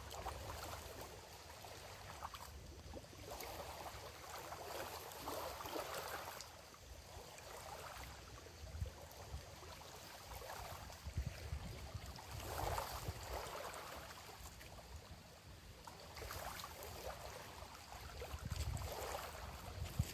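Small waves lapping at a lakeshore, washing in every few seconds, under a low, uneven rumble of wind on the microphone.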